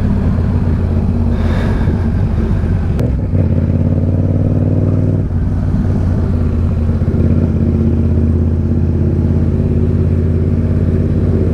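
Motorcycle engine running under way, a steady drone whose note changes about three seconds in and again about five seconds in.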